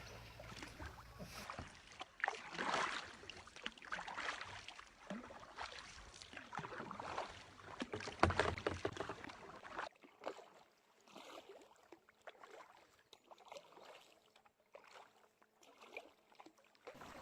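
Kayak paddles dipping and splashing in lake water in irregular strokes, fainter and sparser after about ten seconds.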